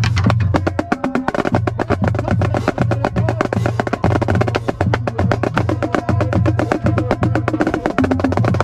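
Marching snare drum played in fast, dense rudiments and rolls, crisp sharp strokes at a rapid even pace, over a steady low pulsing bass.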